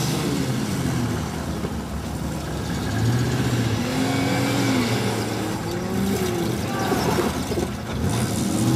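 Several car engines running and revving as the demolition derby cars manoeuvre at low speed, their pitch rising and falling.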